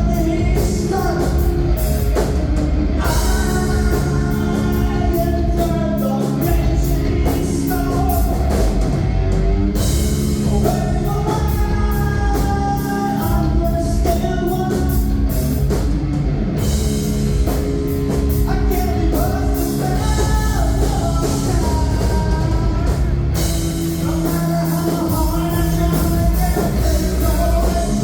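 Live rock band playing loudly and steadily, with a singer's vocals over drums and distorted guitars.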